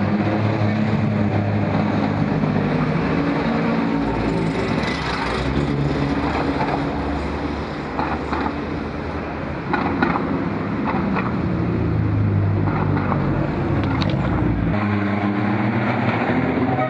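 Engines of classic cars driving past one after another along a street, several running at once, the engine notes shifting as each car comes and goes.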